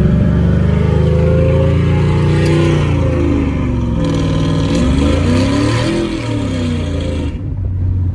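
Cammed 5.3 L LS V8 breathing through a Carven R-series muffler, pulling under throttle on the road, heard from inside the truck's cab. The engine pitch climbs, dips and climbs again, and the throttle eases off near the end.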